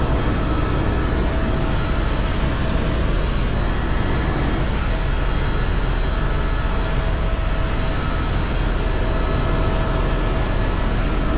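Helicopter in flight: steady, loud rotor and engine noise with faint, constant whining tones above it.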